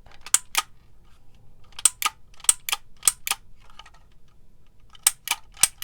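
Hand-cranked manual label maker clicking as it is worked: sharp mechanical clicks, mostly in quick pairs, about a dozen in all, with a pause of about a second in the middle.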